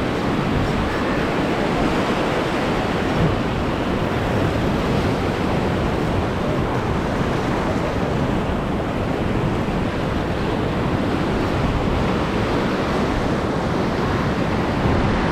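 Steady wash of surf over a shallow reef, with wind noise on the microphone.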